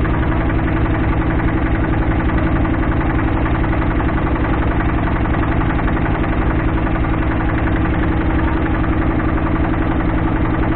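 Motorboat engine running steadily with a fast, even pulsing.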